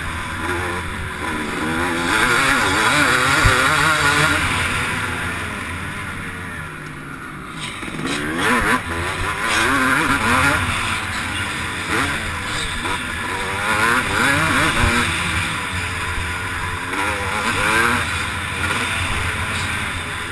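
Motocross bike engine under race throttle, picked up by a bike- or helmet-mounted action camera: the engine pitch climbs and drops again and again with throttle and gear changes. It eases off about six seconds in, then picks up hard again around eight seconds.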